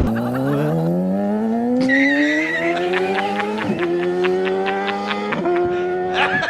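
A motor vehicle's engine accelerating, its pitch rising steadily and then dropping sharply twice as it shifts up through the gears, with a brief high squeal near the start.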